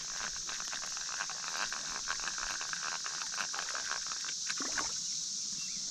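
A chorus of periodical cicadas keeps up a steady high-pitched hiss. Under it runs a dense, rapid crackle of clicks that stops about five seconds in.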